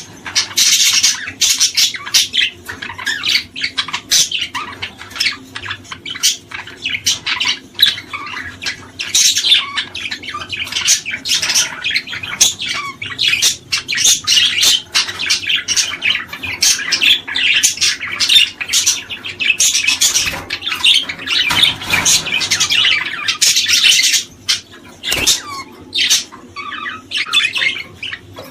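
A flock of small birds chirping and squawking all at once, a dense, unbroken chatter of short, shrill calls.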